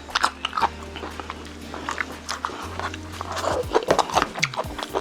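Close-miked chewing and biting of Korean braised chicken, many short clicking mouth sounds in quick succession, over background music with sustained low bass notes.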